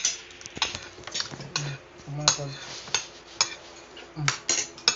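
Cutlery clinking and scraping on plates, in irregular short clicks, with a few faint voices.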